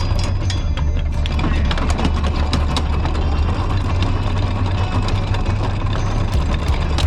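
A boat's engine running steadily at low revs, with a string of sharp clicks and knocks over it.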